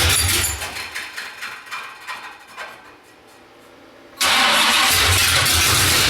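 Oldsmobile 455 V8 running, then stumbling and dying away over about three seconds, and firing back up abruptly about four seconds in to run again. It is running rough on a first start after an engine swap, with an ignition wiring fault; a listener afterwards says it sounds like it's still missing.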